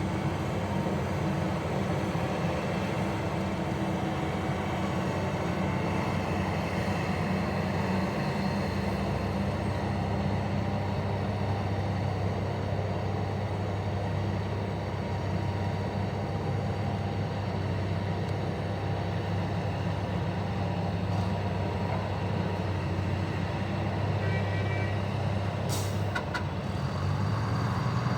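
Heavy mining machinery's diesel engine running steadily with a low hum, with a brief high tone about 24 seconds in and a sharp click shortly after.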